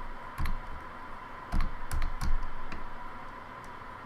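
Keys of a Logitech K360 wireless keyboard being pressed one at a time, about five separate irregularly spaced keystrokes, some clacking louder than others.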